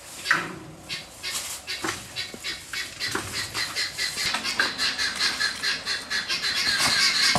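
Birds chirping in quick repeated calls, sparse at first and then busier and louder from about three seconds in.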